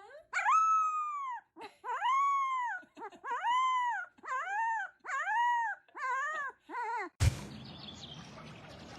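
A dog howling in a run of about seven rising-and-falling calls, each shorter and quicker than the one before. The calls stop abruptly about seven seconds in, and a steady hiss follows.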